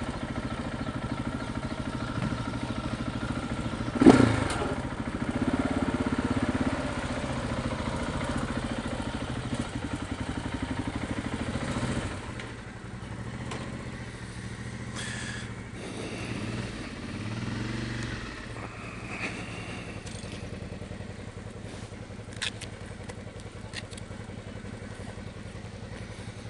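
Motorcycle engine running steadily, with a sharp knock about four seconds in. About twelve seconds in it drops to a quieter, lower running sound.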